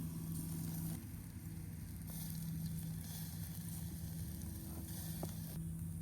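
Sizzling over a campfire, with a few faint crackles and a steady low hum underneath.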